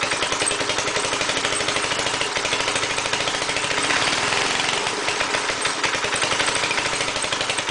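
Briggs & Stratton engine on an air compressor running fast and rough, with a rapid, steady firing rhythm that swells slightly about halfway through. The owner suspects a governor or carburetor fault.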